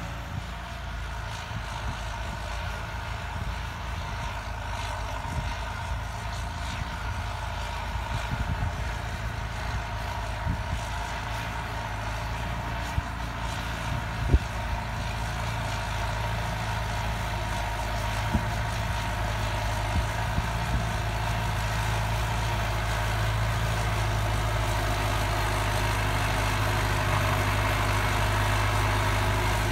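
Farm tractor's diesel engine running steadily, slowly getting louder over the second half, with a few sharp knocks in the middle.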